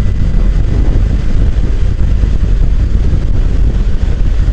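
Wind rushing over the microphone of a moving motorcycle, a loud steady rush weighted low, with road and engine noise beneath it.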